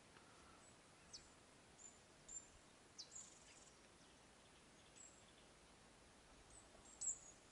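Near silence: a quiet outdoor background with faint, short, high bird chirps every second or two.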